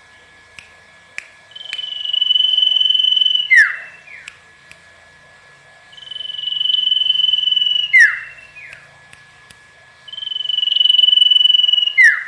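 Common iora (cipoh/sirtu) singing: three times, a long level whistle held for about two seconds, then a quick downward note. A faint steady high tone runs underneath.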